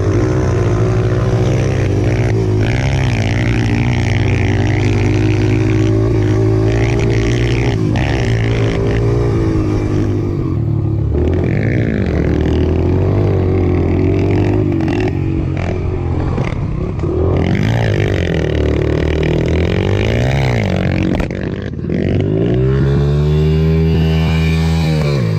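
Mini dirt bike engines running and revving, the pitch rising and falling again and again as the bikes speed up and slow down.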